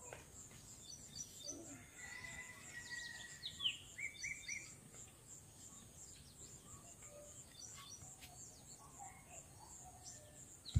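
Birds chirping in the background: scattered short chirps and quick rising and falling calls, a cluster of them about four seconds in, over a faint steady high hiss.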